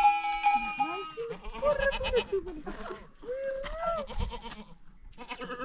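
Goats bleating: a long call that ends about a second in, followed by several shorter, wavering bleats one after another.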